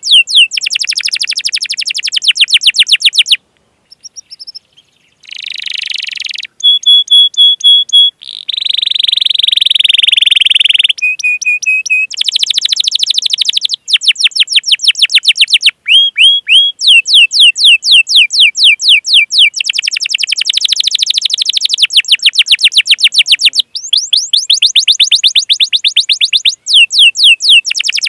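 Canary singing a long rolling song: phrases of very rapid repeated chirps, each a quick downward sweep, with a short pause near the start and held buzzy rolled notes about a third of the way in.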